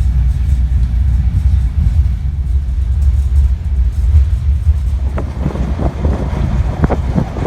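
Steady low rumble of a moving train heard from inside its caboose. From about five seconds in, irregular knocks and rattles join it.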